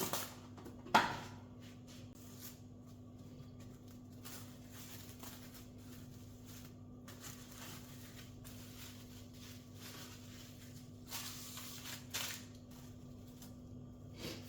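A few knocks and clatters of objects being handled, the loudest about a second in, with brief rustling near the end, over a steady low hum.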